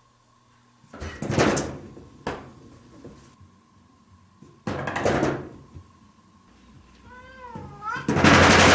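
A cat knocking at a door: three bouts of door banging and rattling, about a second in, about five seconds in and at the end, with one meow just before the last and loudest bout.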